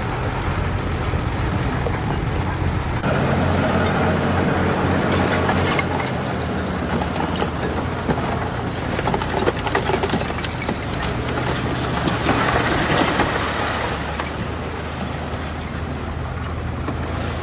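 Bulldozer's diesel engine running steadily with a low drone, with irregular clanking and knocks from its steel tracks and blade, thickest in the middle of the stretch.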